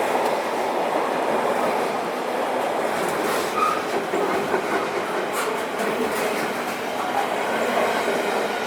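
A train running past on the track, with steady wheel-on-rail noise.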